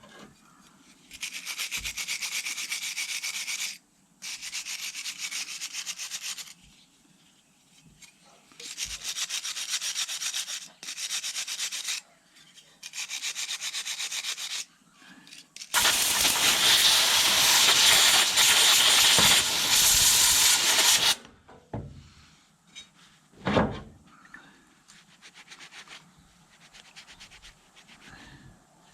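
Abrasive scrubbing or sanding in several bursts of a few seconds each, the last and loudest about five seconds long, typical of rust being cleaned off engine parts. A few knocks follow, one sharp one near the end.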